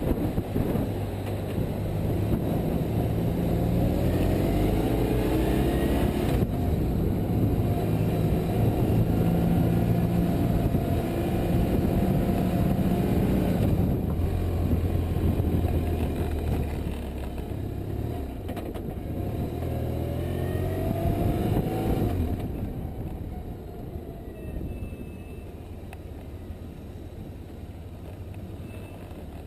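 BMW R1150RT's boxer-twin engine pulling through the gears, its note rising and dropping back at each of several shifts, with wind rushing past. It eases off about 22 seconds in and runs on more quietly.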